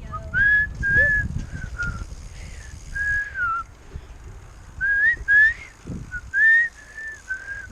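A person whistling a tune: about a dozen short notes, some sliding up or down, in two phrases with a pause about four seconds in. Wind rumbles on the microphone in the first couple of seconds.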